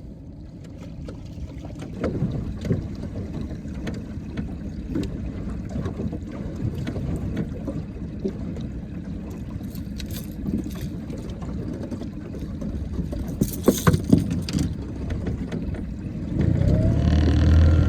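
Scattered knocks and clatter of gear being handled in a small fishing boat over a steady low rumble, with a cluster of louder knocks late on. Near the end a boat motor starts and runs, its pitch rising.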